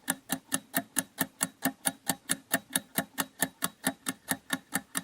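Countdown-timer sound effect ticking like a clock, with sharp, evenly spaced ticks at about four to five a second.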